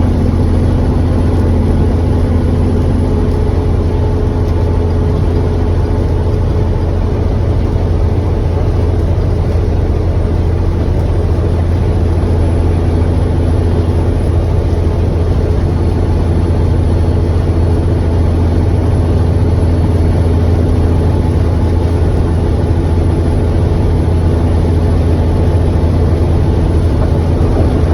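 Peterbilt semi truck's diesel engine running at a steady highway speed, a loud low drone with road noise, holding even pitch and level throughout.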